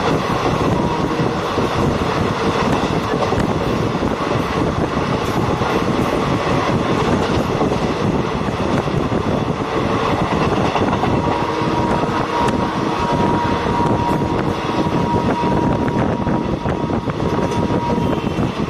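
Train running along the track, heard from on board: a steady rumble and rattle of wheels on rail, with a thin steady whine over it for several seconds in the second half.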